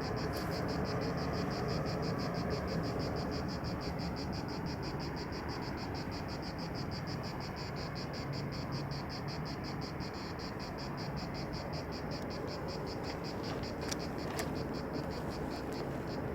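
Cicadas buzzing in a fast, even pulse over a steady low background noise. The buzzing fades out near the end.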